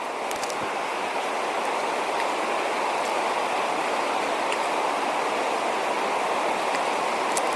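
River water rushing steadily, with a few faint ticks about half a second in.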